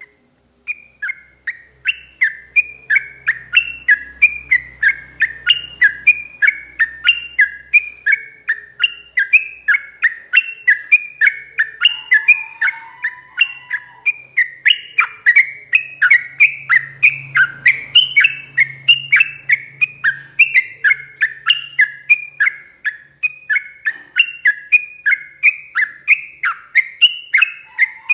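Sooty-headed bulbul (trucuk) singing a long, fast song of repeated downward-sliding whistled notes, about two to three a second. A brief lower call sounds about halfway through.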